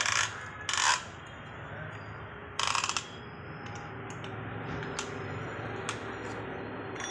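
Hand tools and metal engine parts being handled during engine work: three short metallic rattles in the first three seconds, the last with a quick ratcheting flutter, then scattered light clicks.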